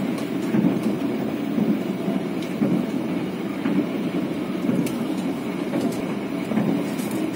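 Passenger train running at speed, heard from inside the coach: a steady low rumble of wheels on rail with a few light clicks scattered through.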